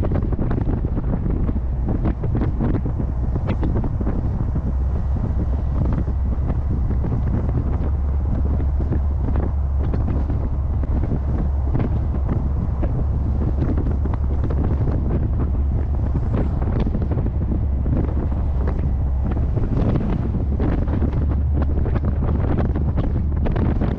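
Heavy wind buffeting the microphone in gusts over a steady low rumble from the moving car.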